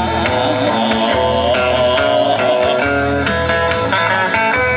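Kawachi ondo band accompaniment between sung lines: guitar playing a melody over a steady drum beat.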